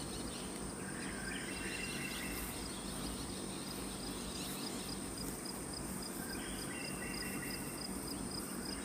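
Forest insect chorus: a steady high-pitched insect drone, joined about halfway by an even pulsing chirp about four times a second, with a few short high chirps near the start and again near the end.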